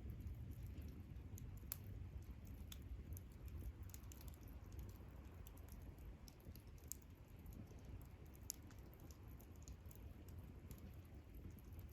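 Wood campfire crackling faintly: small irregular pops and snaps over a low rumble, with a couple of sharper snaps about two seconds in and again past the middle.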